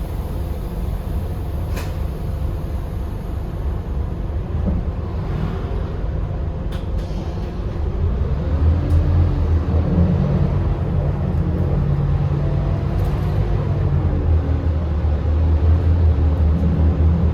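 Scania K280UB bus with its 9.3-litre five-cylinder diesel engine running. The engine grows louder about eight seconds in, as it comes under load, and its note shifts up and down.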